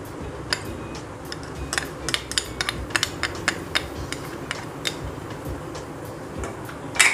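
A kitchen utensil clinking and tapping against dishes as ingredients go into a mixing bowl: irregular sharp clicks, a couple every second, with the loudest clink near the end.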